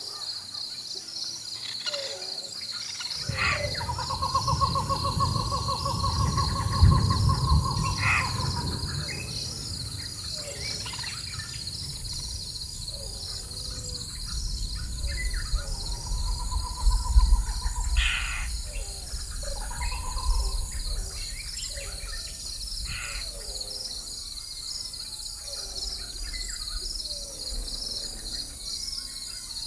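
Rainforest ambience: a steady pulsing chorus of insects, with bird calls over it, including a long trilled call and harsh caws. Low rumbles of distant thunder set in a few seconds in and swell twice, the second time about halfway through.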